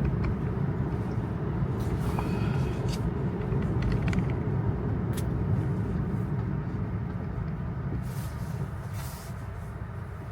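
Tyre and road noise inside an electric Tesla driving on a wet road: a steady low rumble with a few short hissing swishes, easing off a little near the end.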